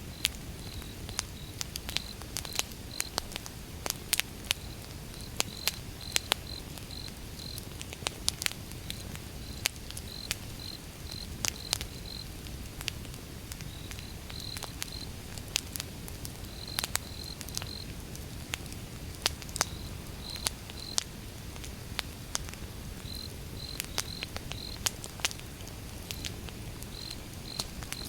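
Firewood burning in an open fire, crackling with frequent sharp pops over a low steady rumble. A cricket chirps in short runs of repeated, steady-pitched pulses.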